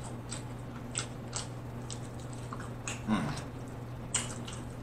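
Close-miked mouth sounds of eating fried chicken wing: soft chewing with wet lip smacks and clicks scattered through, and no crunch. A brief low hum from the eater just after three seconds in.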